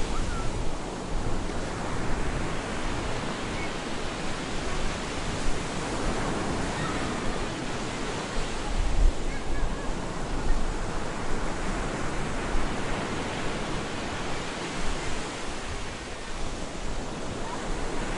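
Stormy surf on a beach: waves breaking and washing in, a continuous rush that swells and ebbs every several seconds.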